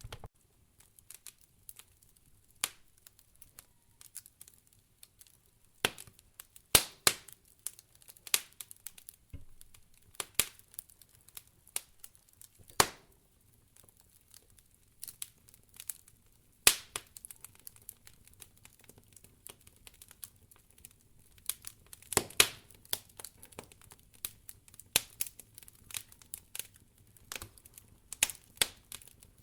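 Wood fire crackling in a fireplace: irregular sharp pops and snaps, some much louder than others, over a faint low background.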